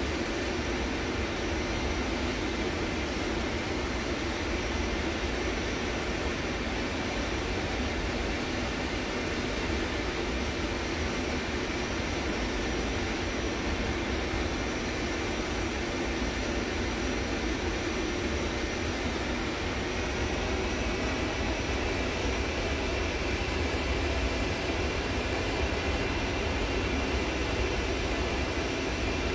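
Aeroplane engines running steadily, a low rumble with a faint high whine that rises slightly about twenty seconds in.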